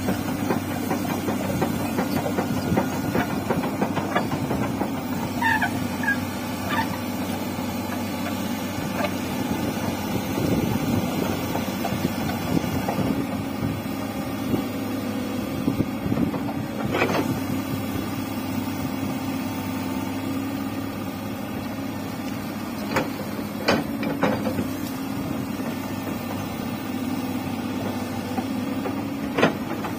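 Komatsu hydraulic excavator's diesel engine running steadily, with a few sharp knocks in the second half as the machine works.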